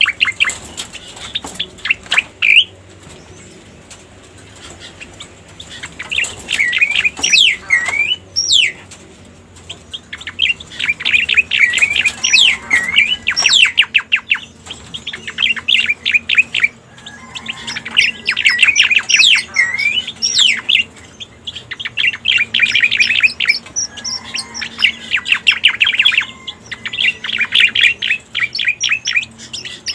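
Cica koreng (striated grassbird) song: repeated phrases of fast chirps and sweeping whistled notes, each a few seconds long with short pauses between, played as a bird-lure recording.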